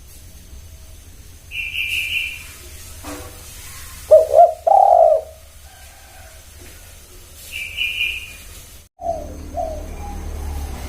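Spotted dove cooing: a short phrase of low coo notes about four seconds in, with a fainter pair near the end. Two short, higher chirps come about two and eight seconds in.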